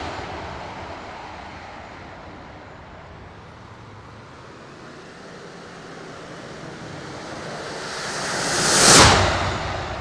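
Radio-controlled model F-16 jet flying past: its jet noise fades away, then swells to a loud, close pass about nine seconds in and drops off quickly. Wind on the microphone underneath.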